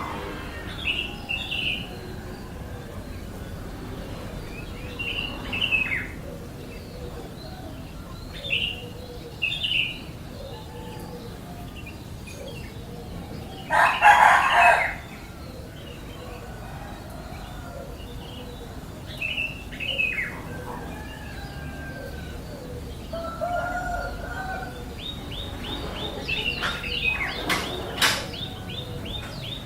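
Birds chirping: short high chirps every few seconds, one louder, longer call about halfway through, and a fast run of repeated chirps near the end.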